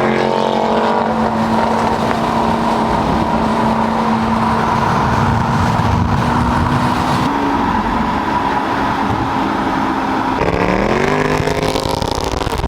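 Car engine running at a steady pitch under road noise, with a short fall in pitch at the start and a rising rev as it accelerates about ten seconds in.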